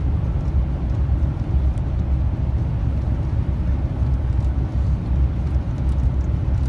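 Long-haul truck driving on the highway: a steady low engine and road rumble.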